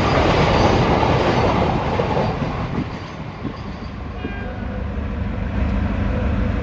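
Loaded container wagons of a freight train rumbling and clattering past close by. After about two and a half seconds this gives way to the quieter, steady drone of a GE WDG4G diesel locomotive approaching from a distance.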